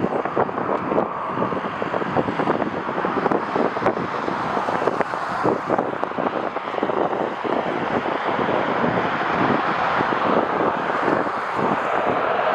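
Strong gusty wind buffeting the microphone, a loud rush with irregular fluttering thumps that swells slightly towards the end.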